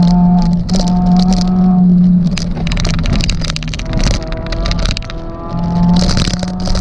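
Suzuki Swift Sport ZC32S's 1.6-litre four-cylinder engine running hard at high, fairly steady revs, easing off briefly about midway and then picking up again. Sharp knocks and rattles are mixed in throughout.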